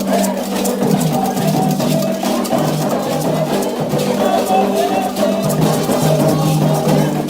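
Candomblé ritual music: fast hand drumming with a small clacking percussion over a group singing a chant.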